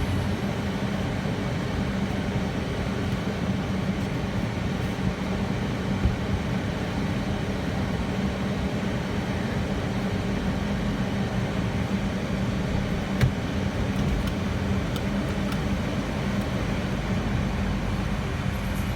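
Steady, muffled rumble of an automatic car wash tunnel heard from inside the car's cabin, with a constant low hum under it and a single brief knock about 13 seconds in.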